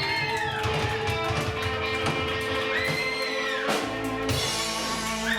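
Live rock music: guitar holding long notes that bend up and down in pitch, over drums.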